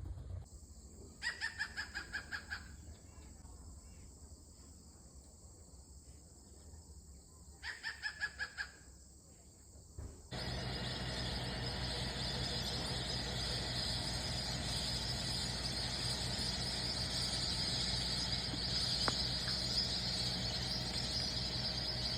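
A bird gives two runs of rapid repeated call notes, each run sliding slightly down in pitch, about a second in and again about eight seconds in. About ten seconds in, a steady high hiss starts abruptly and continues.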